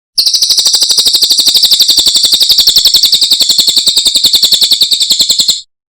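Cililin bird singing one loud, fast, even trill of about ten high notes a second, lasting about five seconds and cutting off abruptly.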